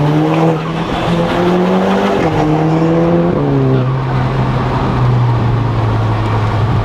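Tuned Audi S3 8P's turbocharged four-cylinder engine heard from inside the cabin, pulling under acceleration with rising pitch. The DSG gearbox makes two quick upshifts, about two and three and a half seconds in, then the engine holds a steady note.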